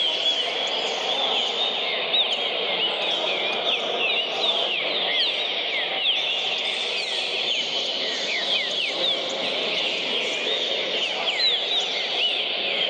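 Green-winged saltator (trinca-ferro) singing fast: many quick, slurred whistled notes rising and falling, packed closely together.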